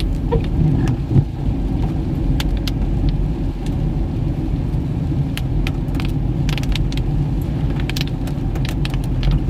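Toyota Fortuner driving, heard from inside the cabin: a steady low engine and road rumble with scattered sharp ticks.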